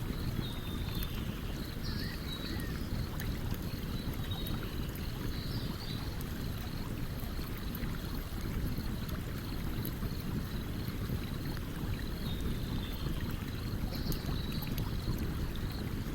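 A stream running with a steady low rush, with the faint light crackle of a campfire over it and a few faint high chirps.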